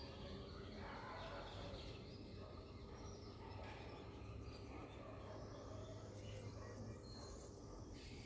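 Faint outdoor ambience: a steady low background hum with a few brief, faint bird chirps.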